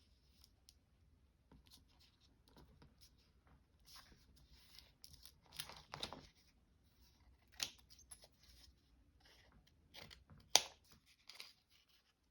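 Paper and card being handled and folded by hand: soft rustling with a few sharp crisp crackles, the loudest near the middle and about two seconds before the end.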